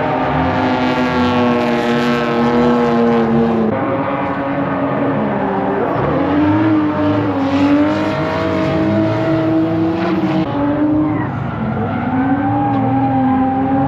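Drift car engines revving hard on the track, their pitch rising, falling and wavering as the cars are held in slides, with a sharp drop in pitch about four seconds in.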